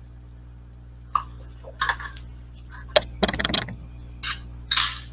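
Clinking of glass and ice as a drink is prepared and served, in short separate sounds with a quick rattling run about three seconds in. A steady low hum runs underneath.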